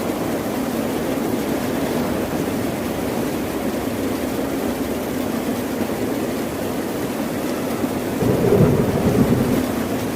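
Ocean surf washing steadily, with a wave surging louder and deeper about eight seconds in.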